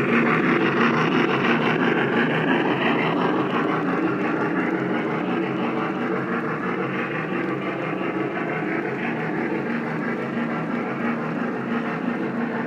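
Lionel O-gauge model train running on three-rail track: a steady rolling rumble with a constant low hum, easing off a little after the first few seconds.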